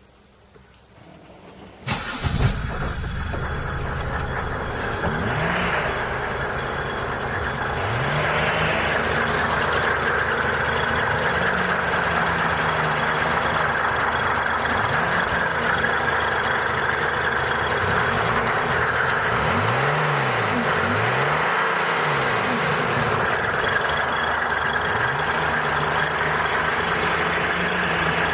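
Mercedes-Benz 300D diesel engine cold-starting: it catches suddenly about two seconds in and settles into a steady idle, a little louder from about eight seconds on.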